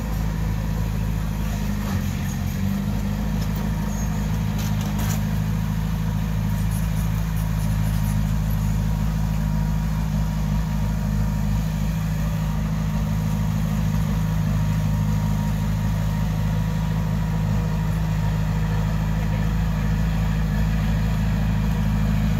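Diesel engine of heavy earthmoving equipment running steadily at a constant speed.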